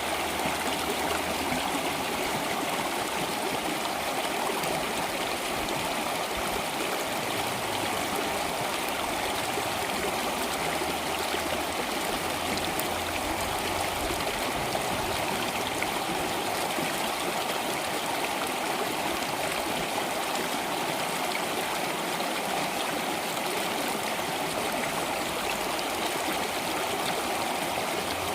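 Stream water flowing steadily, an even rushing and burbling with no breaks.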